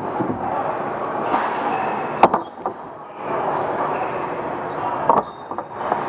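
Ball hockey game noise on a dek hockey rink: a steady rumble of play, with two sharp clacks about three seconds apart.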